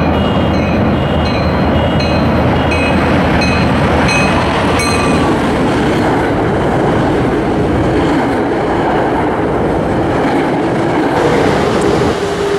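Commuter rail train arriving at a station. Its bell rings about twice a second for the first few seconds over the low hum of the diesel, then the coaches roll past with steady wheel-on-rail noise. A steady tone comes in near the end.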